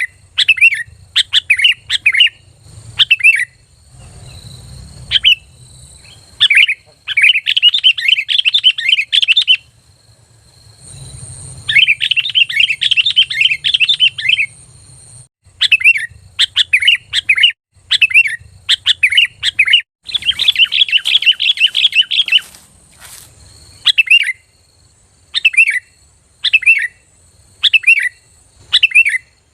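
Sooty-headed bulbul singing loudly: short, clear phrases repeated about once a second, broken three times by fast chattering runs that last two to three seconds each.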